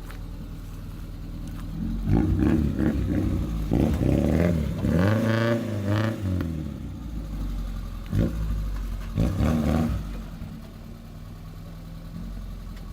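Gypsy off-roader's engine idling through an Automech high-performance aftermarket exhaust, then revved: a few short blips about two seconds in, one longer rev that rises and falls in the middle, and two more quick blips later before it settles back to idle.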